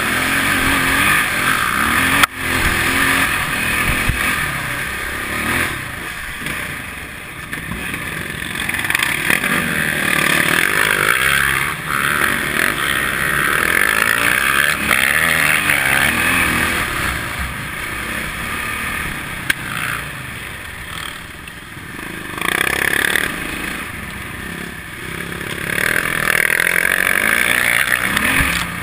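Enduro dirt bike's engine running close up, its sound rising and falling repeatedly with the throttle, with a sharp knock about two seconds in.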